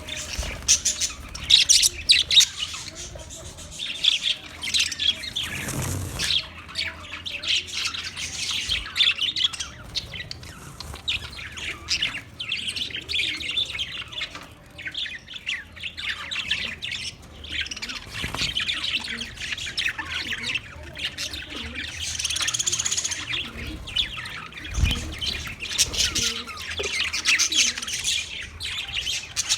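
Budgerigars chirping and warbling in a continuous stream of rapid, high chirps, with occasional harsher squawks.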